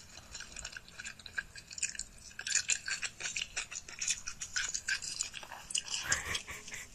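Crisp, close-miked chewing and crunching from a mukbang eating video playing on a phone speaker: rapid, irregular crackly bites and chews.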